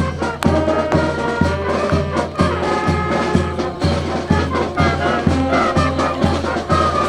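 Upbeat brass band music with a steady beat of about two beats a second and a strong bass line.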